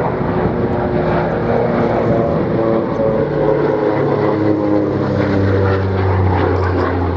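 Propeller-driven aircraft flying past, the drone of its engines and propellers falling steadily in pitch as it passes.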